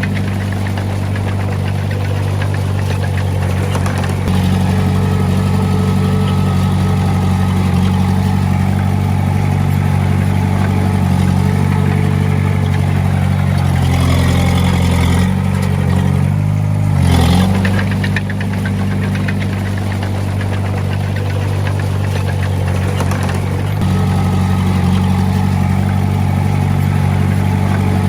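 Diesel engine of heavy earthmoving equipment running steadily. About halfway through its note shifts, rising briefly to its loudest, then drops back to the steady run.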